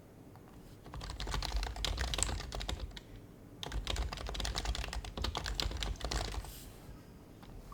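Typing on an HHKB Professional HYBRID Type-S keyboard with its silenced Topre switches: two quick runs of keystrokes, the first starting about a second in, the second after a short pause at the halfway point, ending shortly before the close.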